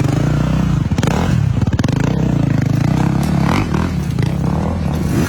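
Off-road dirt bike engine running at low revs with a steady stream of firing pulses, with a few clattering knocks about one and two seconds in.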